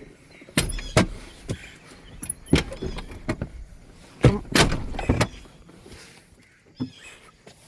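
A string of irregular knocks and clunks, some heavy, spaced unevenly with a loud pair in the second half.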